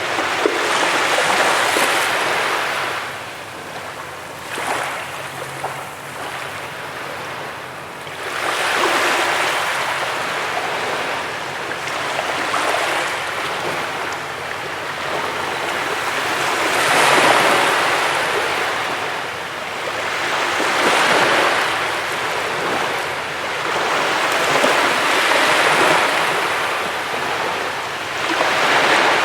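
Ocean waves breaking and washing up a beach: a hiss of surf that swells and fades every few seconds, with stronger breaks about a second in, at the middle and near the end.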